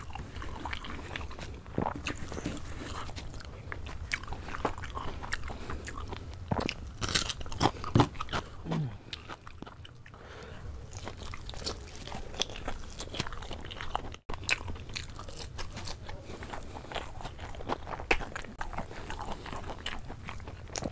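A person biting and chewing food, with repeated crisp crunches and wet mouth sounds.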